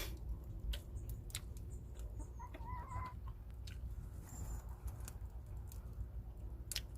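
Wood fire crackling, with scattered sharp pops over a steady low rumble. A short wavering call sounds about two and a half seconds in.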